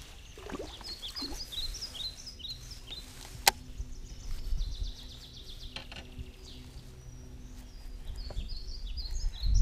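Birds calling in a run of short, quick high chirps, which fade and then start again near the end, with one sharp click about three and a half seconds in.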